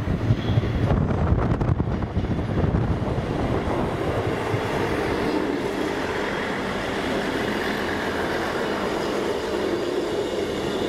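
Train running past on the rails: a heavy low rumble with rattling in the first few seconds, settling into a steady running noise.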